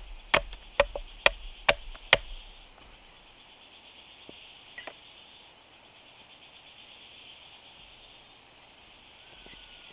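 A tool striking wood in a steady rhythm, about five sharp knocks roughly half a second apart, stopping a little over two seconds in. A steady high hiss of background ambience fills the rest.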